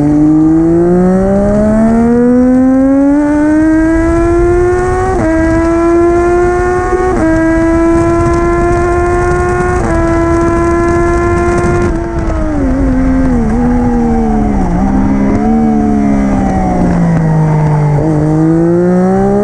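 Triumph Daytona 675R's three-cylinder engine through an Arrow Stage 3 full-system titanium race exhaust, pulling hard through three quick upshifts. About twelve seconds in it shuts off and drops through several downshifts with throttle blips, then pulls again near the end.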